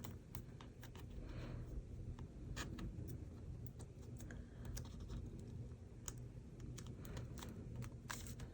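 Paper and card pieces being handled and positioned on a journal page: scattered light clicks, taps and rustles, over a faint low hum.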